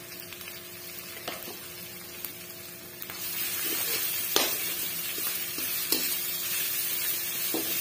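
Crushed ginger and green chillies sizzling in mustard oil in a kadai, stirred with a perforated steel spoon that clicks and scrapes against the pan now and then. The sizzle grows louder about three seconds in.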